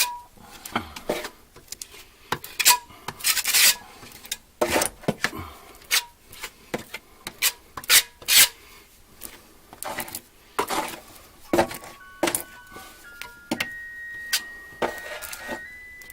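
Irregular scraping, rubbing and knocking from hands-on work, in quick clusters. About twelve seconds in, a simple tune of plain steady notes starts up.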